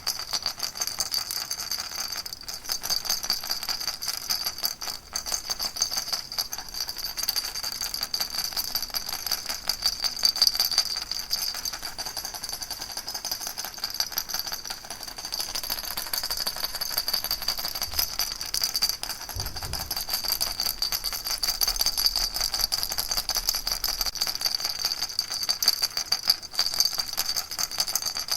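Baby rattle shaken continuously: a dense, even stream of rapid little clicks with no pause.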